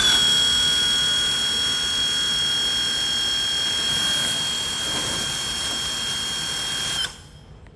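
Battery-powered car washer driven by two agricultural-drone brushless motors, running with a steady high-pitched whine over a rushing hiss, then switched off about seven seconds in.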